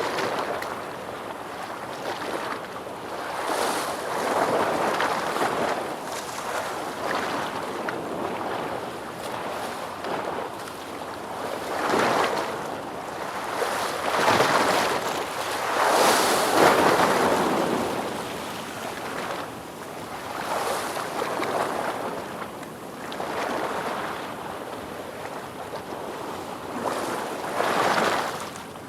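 Ocean surf washing in and breaking: a steady rushing noise that swells and falls every few seconds, with the biggest waves about halfway through and again near the end.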